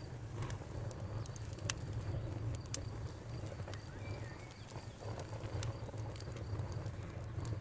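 Wood campfire crackling, with scattered sharp pops over a low rumble. A cricket chirps steadily in the background, and a bird gives a short call about four seconds in.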